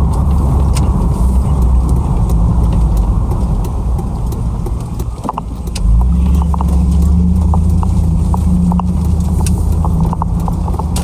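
Road and engine noise inside a pickup truck's cabin while driving: a steady low rumble that dips briefly and picks up again about six seconds in, with light clicks scattered through it.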